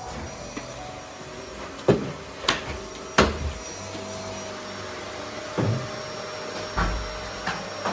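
Vacuum cleaner running with a steady hum, with a series of sharp knocks and clunks, about six of them, as things are bumped and moved.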